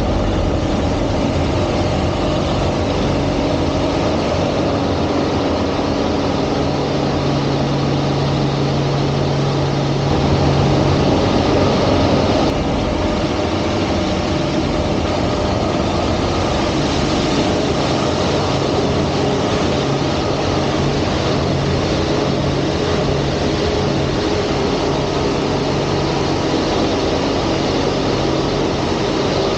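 Aerobatic airplane's piston engine and propeller running steadily, a dense continuous noise with a low tone in it that shifts pitch as power changes. The sound swells briefly about ten seconds in and drops back about two seconds later.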